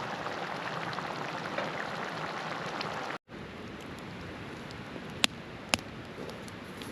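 Steady rushing of a river. After a cut partway through it goes on a little quieter, with two sharp snaps half a second apart.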